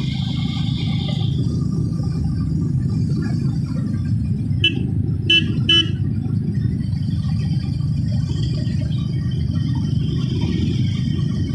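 Steady low rumble of a moving motorcycle ride, engine and wind, with three short horn toots in quick succession about five seconds in.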